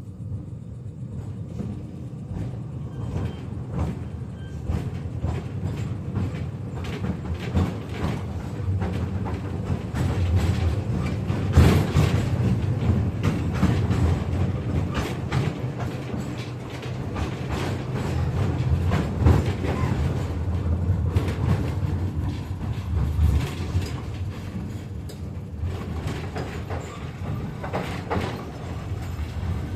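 KTM-5M3 tram running along the track between stops, getting louder over the first several seconds as it picks up speed. The wheels rumble with many knocks and clatters over the rails, the loudest knock about twelve seconds in.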